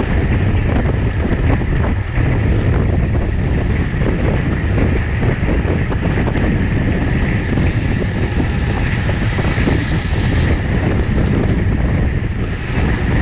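Wind rushing and buffeting over the microphone of a racing bicycle's onboard camera at speed, a steady loud roar heaviest in the low end.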